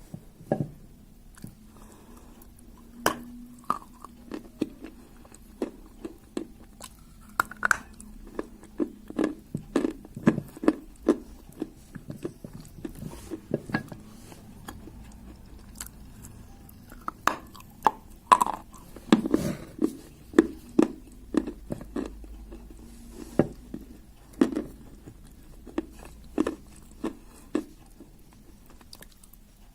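A person biting and chewing pieces of clay, with many irregular crunches.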